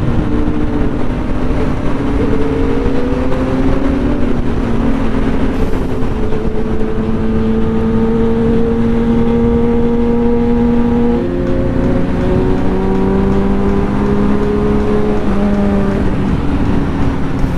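KTM 390 single-cylinder motorcycle engine pulling at steady road speed, with wind rushing over the microphone. Its pitch rises a couple of seconds in, holds, then steps down about eleven seconds in.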